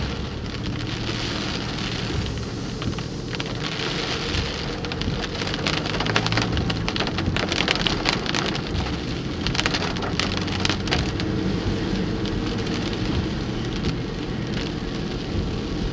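Rain striking a car, heard from inside the cabin as a steady hiss with many small ticks of drops, over the low hum of the car running.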